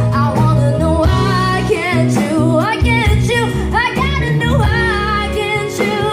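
Live band music with a singer's voice carrying the melody over a bass line.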